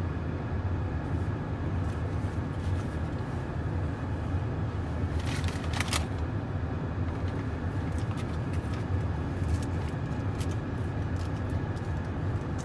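Steady low rumble of a car's interior with the engine idling, with a few short rustles or clicks near the middle.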